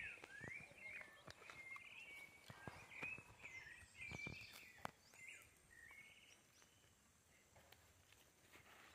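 Faint outdoor ambience: a bird calling in a run of short warbling chirps through the first six seconds or so, with a few soft knocks and clicks from footsteps in the mud.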